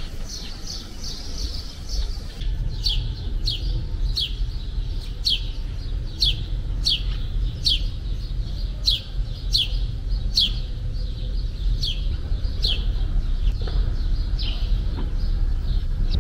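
A bird calling: a long series of short, sharp notes, each falling in pitch, repeated about one and a half times a second, over a low rumble.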